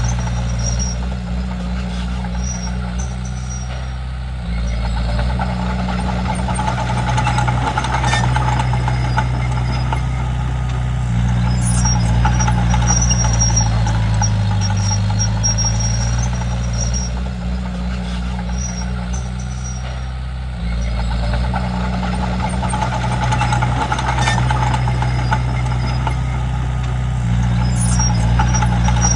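Komatsu D31P bulldozer's diesel engine running under working load. The engine note eases off and then picks up again twice, about four seconds in and again around twenty seconds in, as the dozer works.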